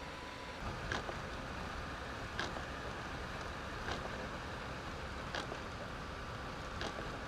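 Lada Niva (VAZ 2121) cabin noise while driving slowly on an icy road in a blizzard: a steady rumbling hiss, with a sharp tick at an even beat about every second and a half.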